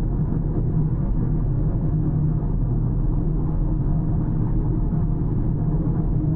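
A car on the move: a steady low rumble of road and engine noise with no sudden events.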